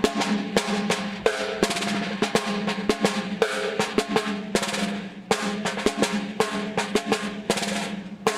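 Snare drum (caixa) played alone in the marcha rancho pattern: a steady run of quick strokes with rolled and accented hits over the drum's ringing tone.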